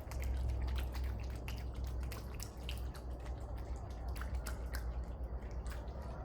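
Water splashing and dripping in many small irregular splashes as feet are washed, over a steady low rumble.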